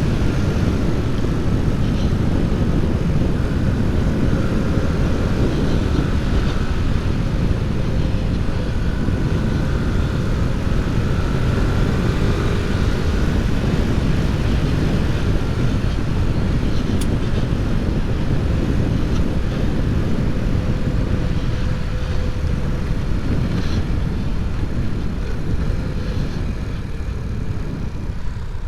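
Honda C90's small four-stroke single-cylinder engine running on the move, its faint, slowly wavering note half buried under a heavy, steady wind rumble on the microphone.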